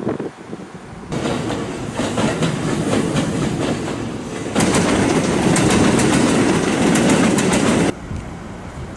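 Train running past on the tracks, its wheels clacking over rail joints. The sound starts abruptly about a second in, gets louder with a run of sharp clicks from about four and a half seconds in, and cuts off abruptly near the end.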